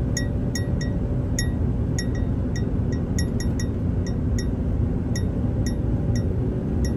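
Steady low rumble of a vehicle driving, with small metal clinks ringing at uneven intervals, two or three a second, like something loose rattling with the ride.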